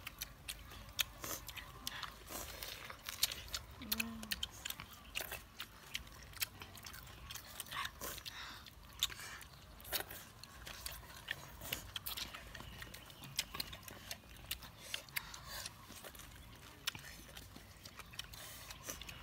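Several people chewing and crunching papaya salad with crab, eaten by hand, with many quick irregular wet smacks and crunches close to the microphone.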